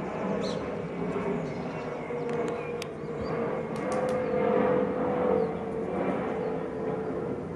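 Steady engine drone with a humming tone that swells a little in the middle, and a few faint, short high chirps over it.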